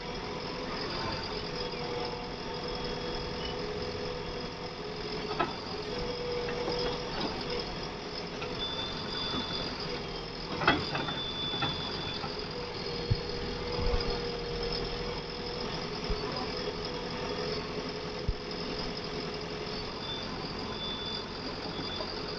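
Heavy diesel machinery engine running steadily, with several sharp knocks, the loudest about halfway through.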